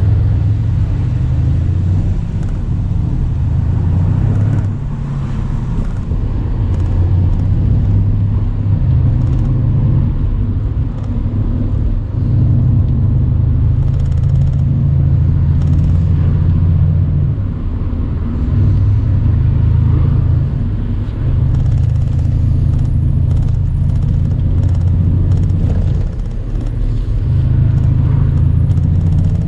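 Mercedes-AMG C63's 4.0-litre twin-turbo V8 pulling the car along a country road, its deep exhaust note rising and easing off every few seconds with the throttle, with short dips between pulls.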